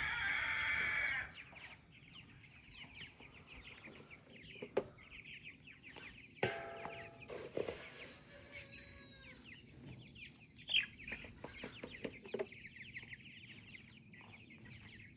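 A flock of young Cornish Cross meat chickens peeping and clucking, with a loud drawn-out call in the first second and another about six and a half seconds in. A few sharp knocks are scattered through.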